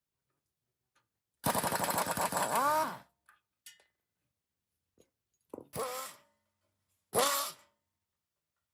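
A small motor-driven tool run in three bursts: one of about a second and a half, then two brief ones, its pitch rising and falling each time as it speeds up and winds down.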